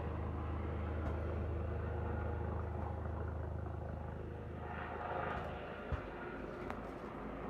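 Steady low drone of a helicopter overhead, mixed with road traffic; a vehicle passes about five seconds in, the drone eases after it, and there is a single short thump near the end.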